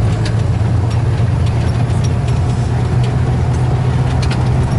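Motor vehicle engine and road noise heard from inside the moving vehicle: a steady low drone with scattered light rattles and clicks.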